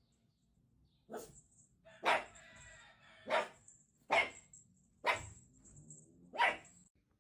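A dog barking, about six single barks roughly a second apart.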